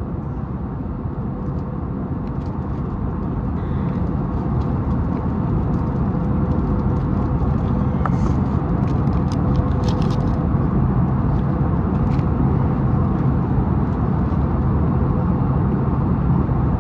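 Steady cabin noise of an Airbus A320neo in cruise flight: an even low rumble of engines and airflow with a thin steady hum, growing slightly louder through the stretch. A few faint light clicks sound over it.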